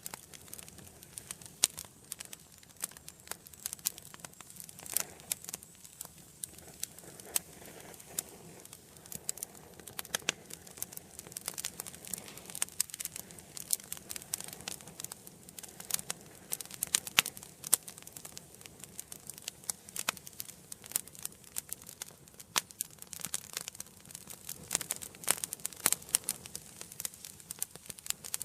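Wood fire burning in an indoor fireplace: irregular sharp crackles and pops over a soft, steady hiss of flame.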